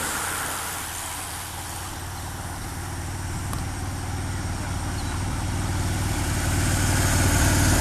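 A motor vehicle running, a low steady rumble that grows steadily louder.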